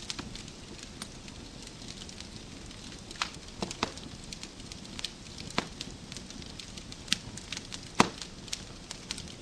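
Wood fire crackling in a fireplace: a steady low rumble of flames with irregular sharp pops and snaps from the burning logs, the loudest snap about eight seconds in.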